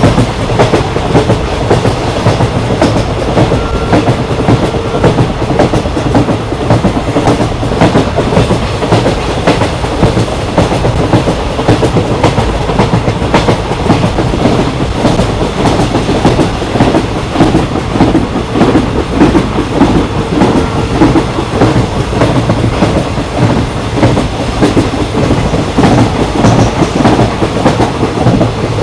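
Moving train running steadily on the rails: a continuous low rumble with the wheels clattering over the track.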